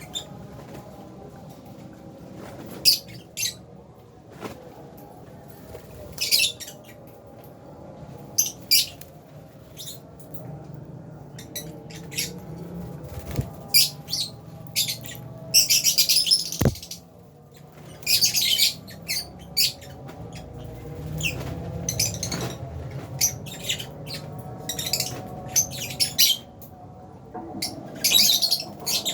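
Lovebirds, Fisher's and albino, chirping: sharp high chirps at irregular intervals with a few longer bursts of chatter in the middle, over a low steady hum. A single click about halfway through.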